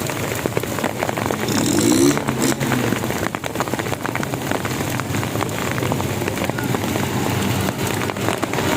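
Rain falling steadily, with many separate drops ticking, over the low steady sound of vehicle engines. A brief pitched sound stands out about one and a half seconds in.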